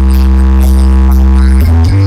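Electronic dance music with a very heavy bass blasted from a large carnival sound system ('sound horeg'). A deep bass note is held steady, then breaks into a new bass pattern near the end.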